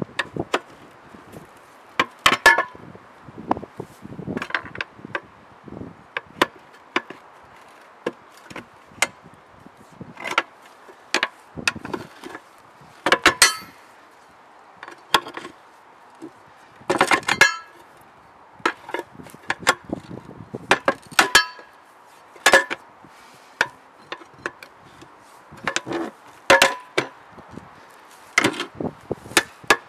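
Hand tools striking and clinking on the metal of a tractor wheel rim during a tire change: irregular knocks and clanks, some with a short metallic ring, coming singly and in quick clusters.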